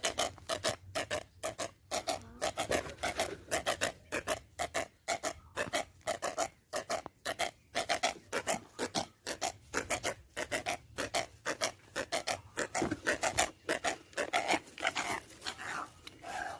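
Rapid, repeated rasping scrapes, about four to five strokes a second, with short breaks between runs.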